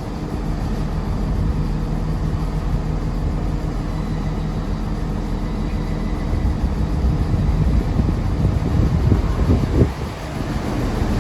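Train running at the platform, a steady low engine hum with a couple of short louder rumbles near the end.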